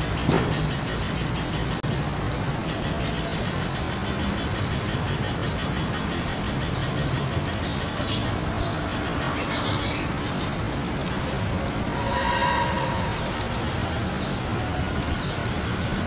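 Spiderhunter calling: short, high chirping notes repeated at close intervals over a steady low background rumble, with a couple of sharp clicks about half a second in and again around eight seconds.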